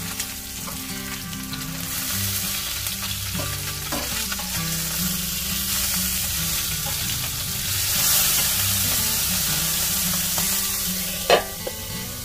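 Salmon frying in a hot pan: a steady sizzling hiss that swells for a while, with soft background music underneath and one sharp knock near the end.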